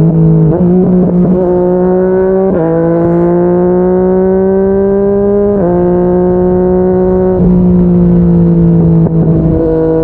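Yamaha MT-09's three-cylinder engine through a Yoshimura R55 slip-on exhaust, running hard at speed. The note holds or slowly climbs, with sudden pitch steps about half a second, two and a half, five and a half and seven and a half seconds in, where gears change.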